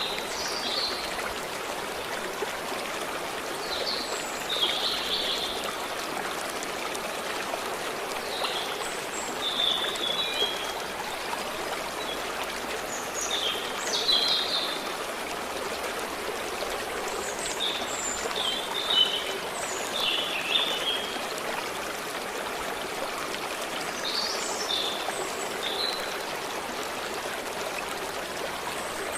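A stream running steadily over rocks, with songbirds chirping in short high phrases every few seconds.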